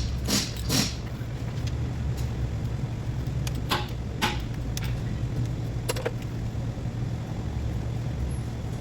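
Engine idling with a steady low hum. Quick, evenly spaced clicking in the first second stops, then a few single sharp metallic clicks follow.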